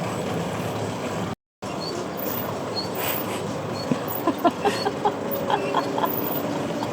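Short, pitched bird calls repeating in quick succession from about four seconds in, over steady outdoor background noise. The sound cuts out completely for a moment about a second and a half in.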